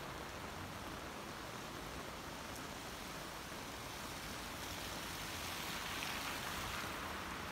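Heavy rain pouring steadily onto a street, with a car driving past close by on the wet road about five seconds in, its tyres swishing through the water for a couple of seconds.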